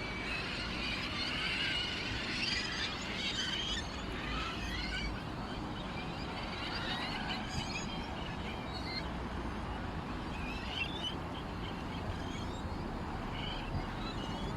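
Small songbirds chirping and twittering, many overlapping calls at first, thinning to scattered chirps after about five seconds, over a steady low rumble.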